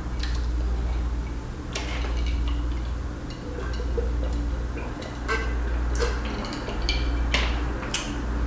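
Close-miked eating sounds: chewing with sharp, wet mouth clicks scattered throughout, over a low rumble that swells and fades every second or two.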